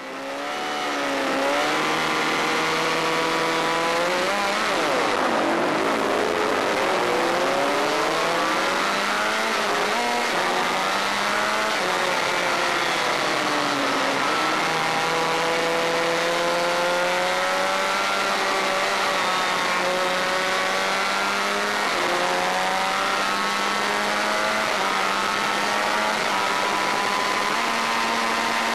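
Honda VFR400's 400 cc V4 engine running hard on a race track, its pitch repeatedly climbing as it revs out and falling away on gear changes and braking, over a steady rushing noise. The sound fades in just at the start.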